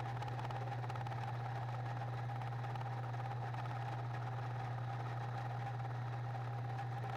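Milling machine running steadily: a constant low hum with a steady higher whine above it, unchanging throughout.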